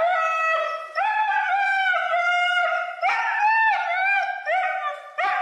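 A dog howling, a run of long high-pitched wavering wails with brief breaks between them.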